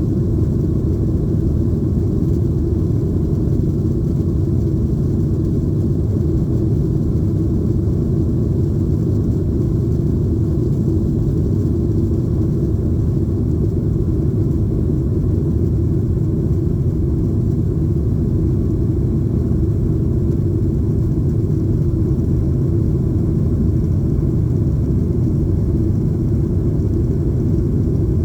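Steady low rumble inside the cabin of a Boeing 737-800, from its CFM56 engines and the airflow over the fuselage, heard from a seat behind the wing.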